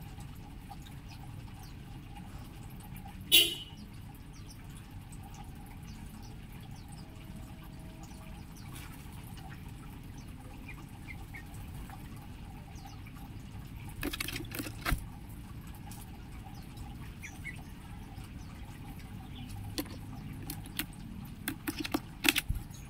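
Aviary birds: a few faint chirps over a steady low background hum, with one loud sharp call a little over three seconds in. Clusters of sharp clicks and knocks come in the middle and again near the end.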